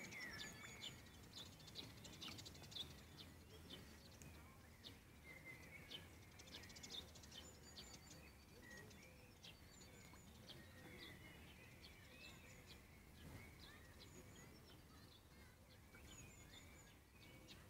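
Faint small-bird chirping: many short, high chirps repeating over a low, steady background hum.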